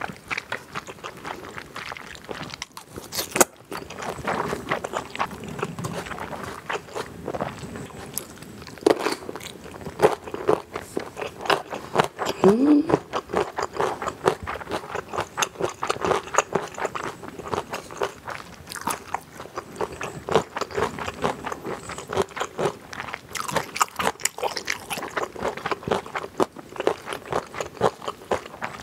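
Close-miked chewing of chilled pigs' feet salad with crisp shredded vegetables: many quick, irregular crunches and wet mouth sounds.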